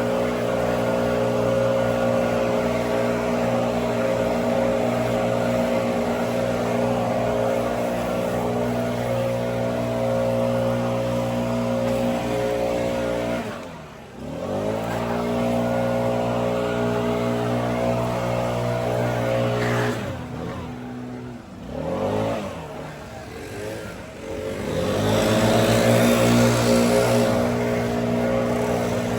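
Small petrol engine running steadily at high throttle, its pitch falling and climbing back twice, about halfway through and again later, as the throttle is eased off and opened up again.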